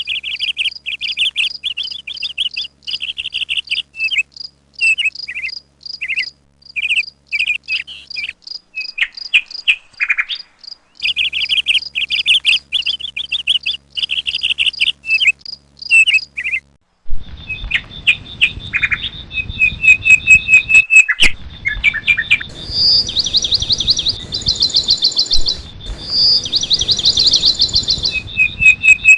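Small birds chirping in rapid, high repeated notes. About halfway through the sound changes to another recording, with a constant background hiss, a steady high buzz and fast chattering trills over it.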